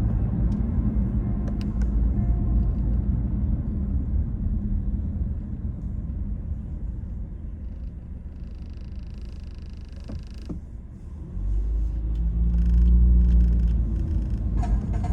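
Low rumble of a car wash, with a brief hiss about eight seconds in; the rumble dips, then grows louder again near the end.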